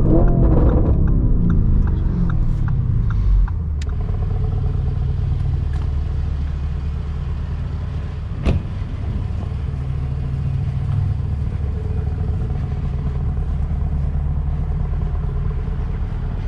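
Lamborghini Urus twin-turbo V8 with a straight-piped Capristo exhaust, its revs falling over the first few seconds alongside a run of short, evenly spaced clicks. It then settles into a steady low cruising drone, with one sharp knock about eight seconds in.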